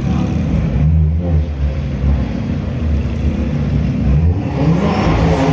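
Lamborghini Huracán LP610-4's V10 running at low revs through an aftermarket Capristo exhaust, a deep uneven rumble, building into a fuller, rising noise near the end.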